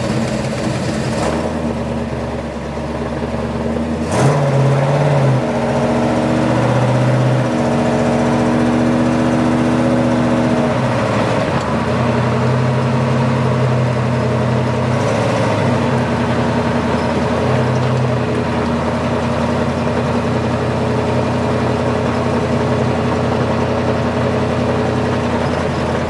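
Small-block Chevy V8 with a new Holley Sniper EFI running steadily, its engine note shifting in strength a few times.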